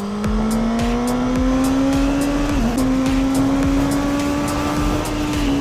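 Motorcycle engine held at high revs, its pitch climbing slowly and steadily, with a brief dip about halfway through.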